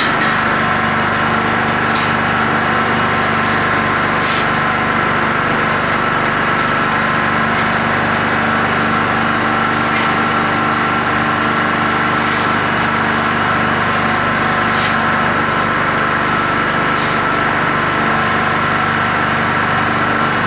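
Skif BSM 200 concrete mixer running steadily on its 550 W electric motor, together with the engine of the portable generator that powers it. A few faint knocks come every couple of seconds.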